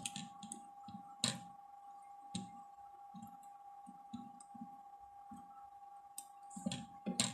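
Scattered small clicks and soft taps of hand tools and parts being handled on an electronics workbench while re-soldering a circuit board, with a sharper click about a second in. A faint steady high-pitched whine runs underneath.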